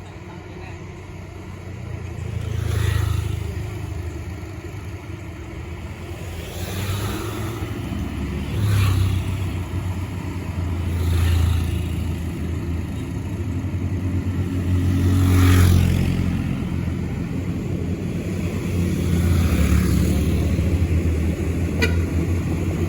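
Road traffic: a low, steady engine drone, with about six vehicles passing one after another, each swelling and fading.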